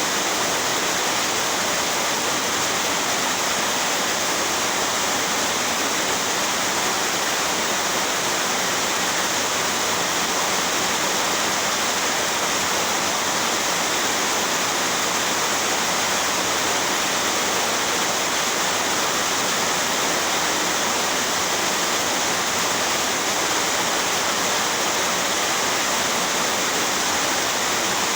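Heavy rain pouring steadily: an even rushing noise that does not change or break.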